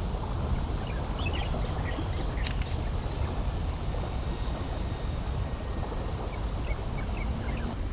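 Strong wind buffeting the microphone: a steady low rumble, with a few faint high chirps scattered through it.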